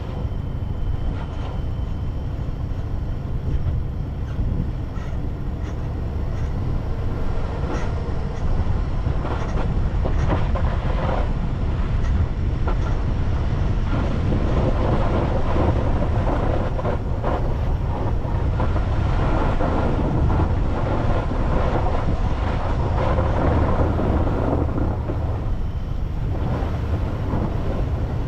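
Car driving along a road: steady engine and tyre road noise with a low rumble, a few short ticks and knocks scattered through it, getting a little louder partway through.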